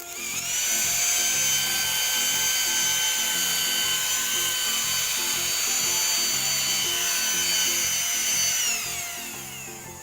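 Modified 550-size 12 V DC motor running free: a high whine that spins up quickly at the start, holds a steady pitch, then winds down with falling pitch near the end. Background music plays underneath.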